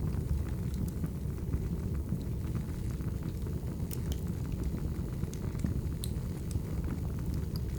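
Wood fire burning: a steady low rumble with scattered sharp crackles and pops at irregular moments.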